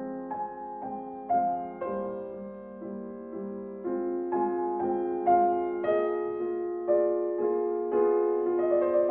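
Solo piano playing a slow, gentle melody over held chords, a new note sounding about every half second to a second.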